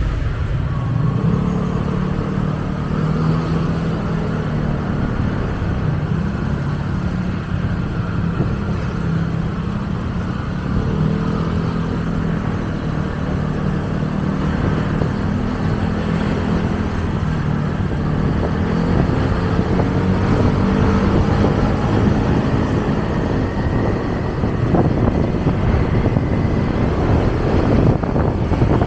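Motorcycle engine running while riding through city traffic, its note drifting up and down with the throttle over steady road and wind noise.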